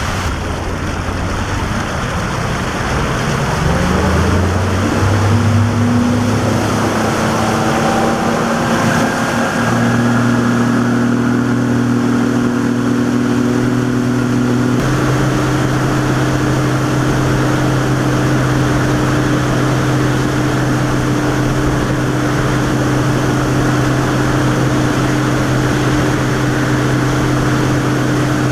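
Boat engine speeding up, its pitch rising over the first ten seconds, then running at a steady speed, with constant wind and water rush.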